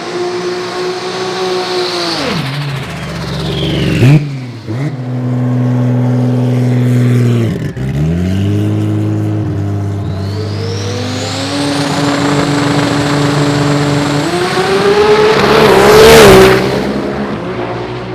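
Drag racing car engine revving at the track: held at steady revs, dropping away and surging several times, with a sudden loud burst about four seconds in. The revs climb gradually to the loudest point near the end, then fall away.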